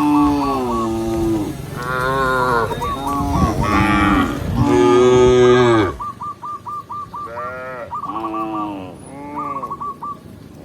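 Cows mooing, a run of drawn-out calls that fall in pitch, the loudest and longest about five seconds in, followed by three shorter, quieter moos. A short high repeated note, like a small bird calling, recurs between the moos.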